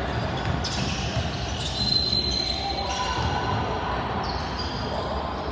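Basketball game sound in a gym: a ball dribbling on the hardwood court with the echo of the large hall, and a high squeak about two seconds in.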